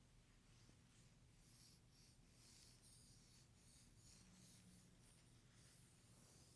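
Faint, irregular scratchy strokes through hair, the soft swish of brushing or scratching in hair play, over a low steady hum.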